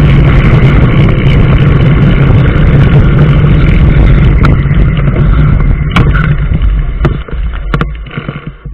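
A vehicle running with a steady low engine and road hum, which dies down over the last few seconds. Several sharp clicks come near the end.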